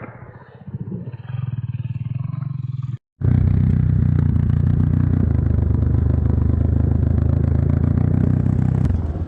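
Enduro motorcycle engine running at steady revs. It drops out for a moment about three seconds in, then comes back louder and stays steady.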